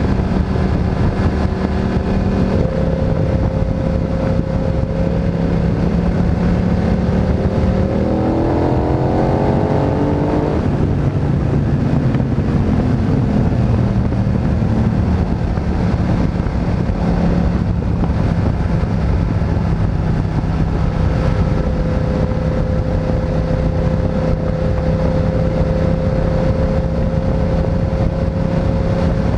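Motorcycle engine running on the move, over a steady rush of noise. Its pitch climbs as the revs rise about eight to ten seconds in, then holds at a steady cruising note.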